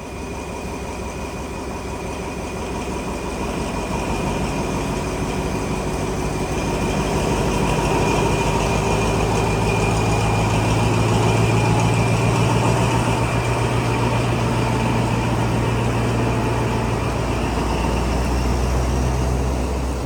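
Diesel locomotive engine running with a steady low hum, growing louder over the first several seconds; near the end its tone drops lower.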